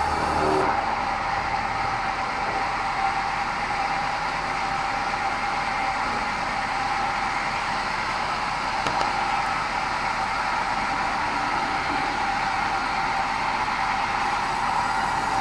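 Sawmill band saw running steadily, a continuous whine over a broad hiss.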